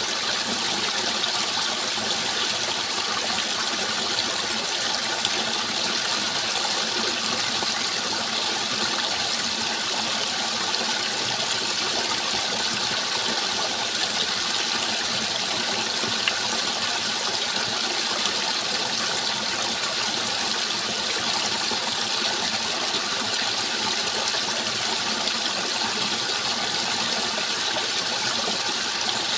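Water rushing steadily, an even, unbroken hiss with no change in level.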